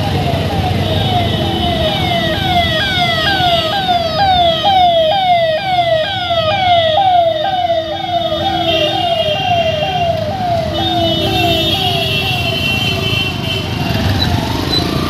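Emergency vehicle siren sounding in a fast repeating pattern, each cycle a quick fall in pitch, about two a second, over road traffic noise.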